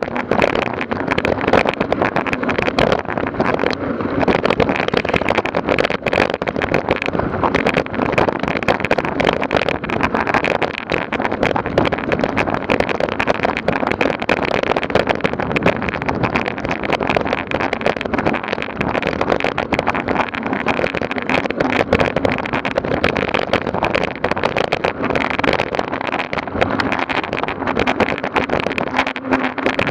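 A motor vehicle running steadily under way, with a constant engine hum and a dense rattle.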